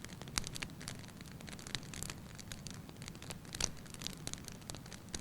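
Wood fire burning in a fireplace: logs crackling with frequent sharp pops over a low steady rumble of flame, the loudest pops about half a second in and again near three and a half seconds.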